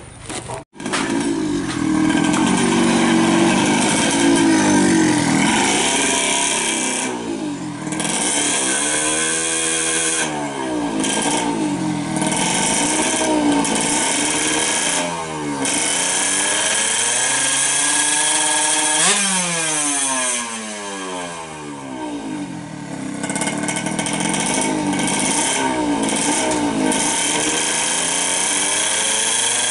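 Yamaha F1ZR's tuned 116 cc two-stroke single engine running loud and being revved over and over, its pitch sweeping up and down.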